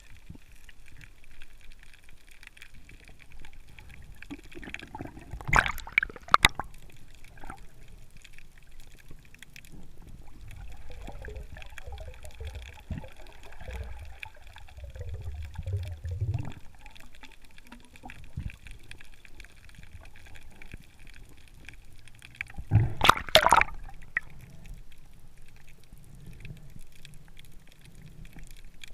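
Water sloshing and gurgling, with two short louder splashing bursts, one about six seconds in and one about twenty-three seconds in.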